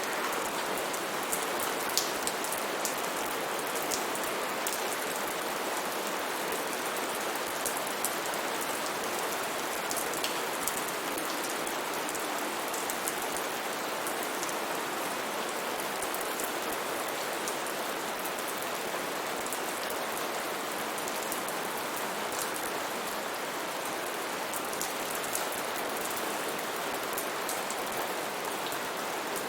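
Steady rain falling, with a constant hiss and scattered sharper drops ticking on a surface.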